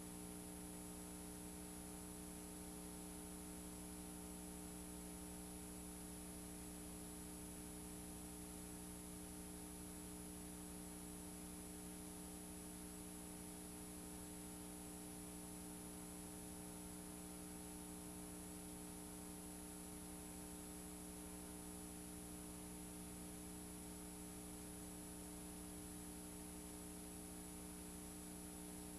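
Steady electrical hum and hiss from VHS tape playback with no programme sound, made up of several constant low tones and a faint high-pitched whine that never change.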